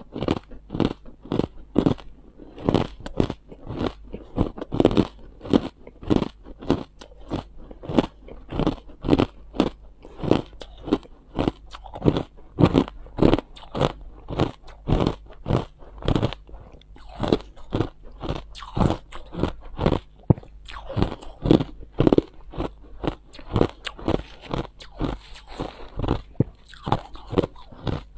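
Ice being chewed and crunched between the teeth: a steady run of sharp crunches, about two to three a second.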